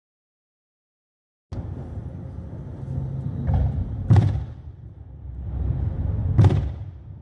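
Steady low rumble with two loud, sharp bangs about two seconds apart, starting after a second and a half of silence.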